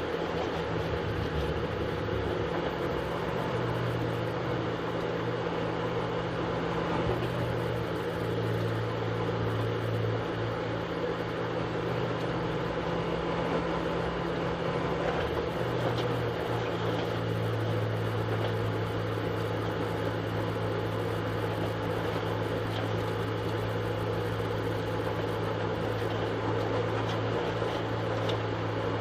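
Touring race car's engine running steadily at low revs, heard from inside the car as a low drone whose pitch shifts slightly a few times.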